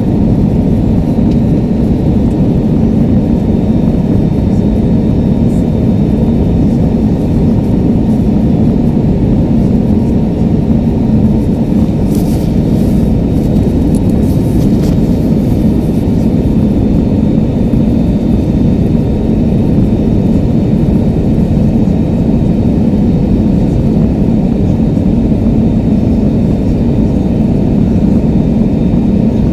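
Airliner cabin noise heard from a passenger seat: the engines and rushing air make a loud, steady low rumble that does not change.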